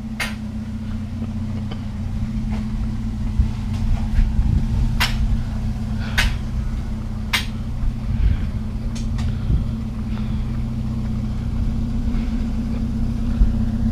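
Vehicle engine idling steadily, with several sharp metallic knocks from metal bed rails being handled.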